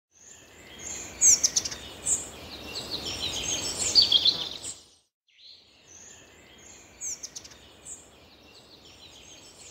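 Several birds chirping and singing in a recorded outdoor soundscape, over a steady background hiss. The sound breaks off briefly about halfway through, then resumes more quietly.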